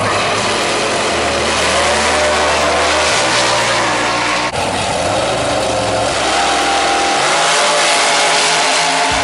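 Loud drag-racing car engines running and revving, their pitch rising and falling, with a brief sharp break about four and a half seconds in.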